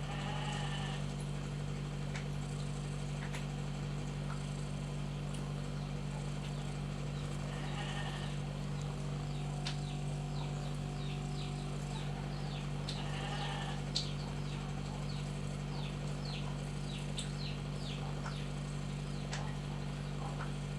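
Kitten mewing: three drawn-out, bleat-like mews several seconds apart, over a steady low hum.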